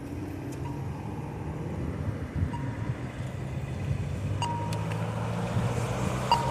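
Motor-vehicle traffic running close by: a steady low engine hum that grows slightly louder, with a few light metallic clinks.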